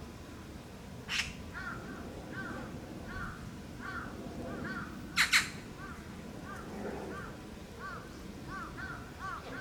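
Meerkats calling: a steady run of short chirps, about one or two a second, broken by a sharp shrill squeal about a second in and a louder double squeal around five seconds in.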